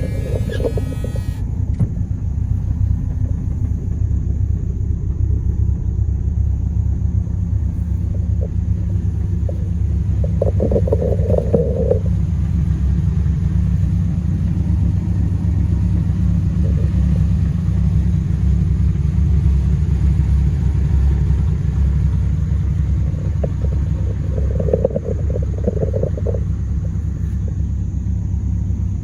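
A 1983 Dodge D150 Miser pickup running, a steady low rumble.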